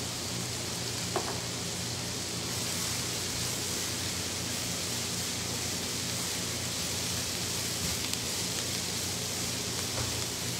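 Sliced onions and diced carrots frying in oil in two pans, a steady sizzle as a spatula stirs the onions, over a low steady hum. A light knock about a second in.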